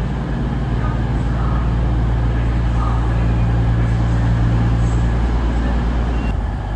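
Diesel train engines running steadily at idle, giving a low hum. Part of the hum drops away about five seconds in.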